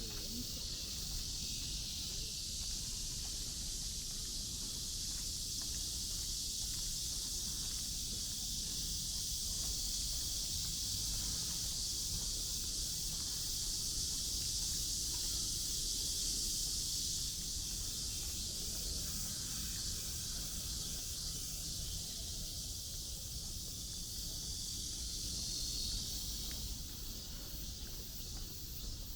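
A steady, high-pitched insect drone in the trees, fading out near the end, over a low rumble of distant city traffic.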